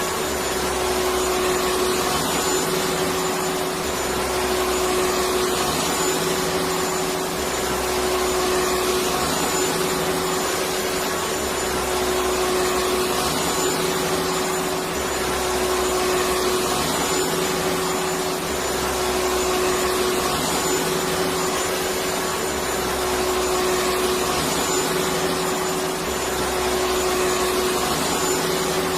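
Electric vacuum cleaner running steadily: an even whooshing whir with a constant hum, its low end pulsing slightly every couple of seconds.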